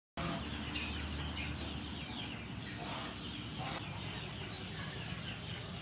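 Outdoor background sound with birds calling now and then over a steady hiss, and two short noises a little past the middle.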